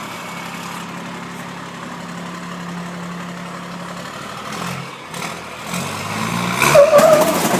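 Truck engine idling steadily, then revving up for the pull about five seconds in. Near the end the noise grows louder, with a wavering screech as the chain takes the strain.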